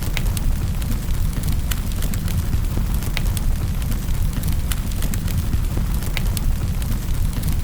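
Fire burning in a fireplace: a steady low rumble of flames with scattered sharp crackles and pops, several a second at irregular intervals.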